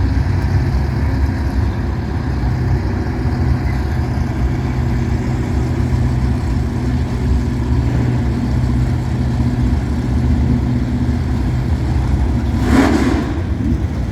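Drag-racing car engines idling with a steady low rumble. A short, louder burst comes near the end.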